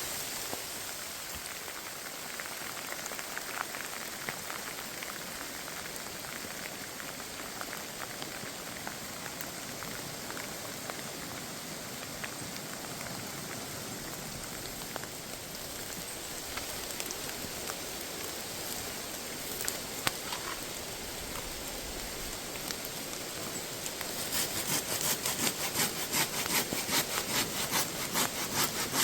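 Steady rain pattering down. About five seconds before the end, a hand saw starts cutting wood in a steady rhythm of about two strokes a second, louder than the rain.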